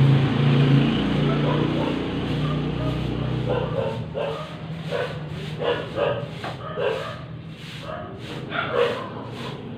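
A steady low hum for the first few seconds, then a dog barking and yipping in short, repeated calls from about four seconds in.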